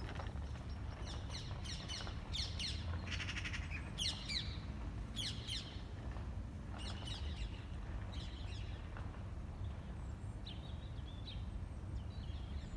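Songbirds calling: a run of quick down-slurred chirps and one rasping note, thinning out to fainter short calls in the second half, over a steady low rumble.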